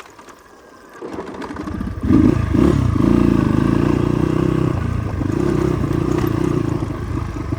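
Motorcycle engine comes in about a second in, revs up briefly around two seconds in, then runs steadily at a constant pitch.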